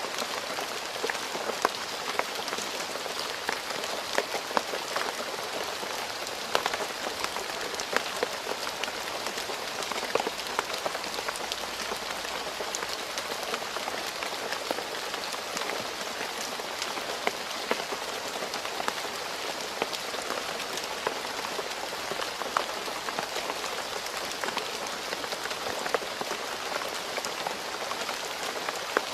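Steady rain falling on a road, a constant hiss dotted with many sharp individual drop splashes.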